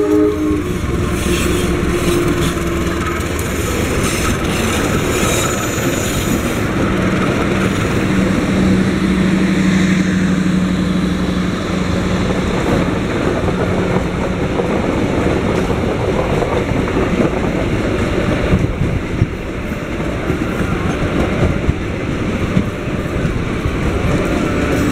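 A diesel locomotive passing close by, followed by its passenger coaches rolling past with continuous wheel-on-rail noise and some clickety-clack. A steady low hum stands out for several seconds in the middle.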